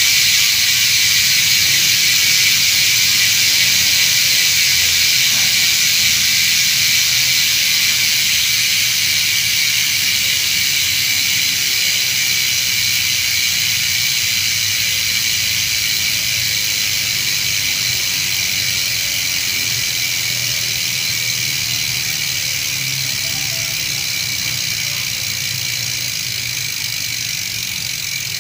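Mountain-bike rear freehubs freewheeling as the wheels coast: the pawls ratcheting so fast that the clicks merge into a steady, high-pitched buzz, which slowly fades as the wheels spin down.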